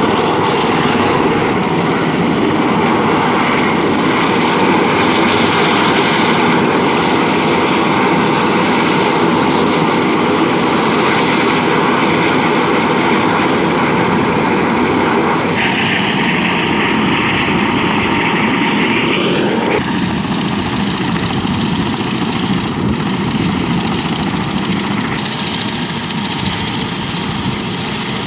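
Helicopter running close by, the dense rush of its rotor and turbine with a fast low pulsing from the blades, as it takes off. The tone of the sound shifts about fifteen seconds in and again about twenty seconds in, and it eases slightly near the end.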